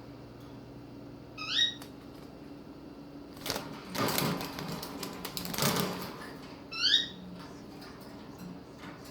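A young albino cockatiel gives two short rising chirps, one about a second and a half in and one near the end. Between them come two bursts of rustling noise.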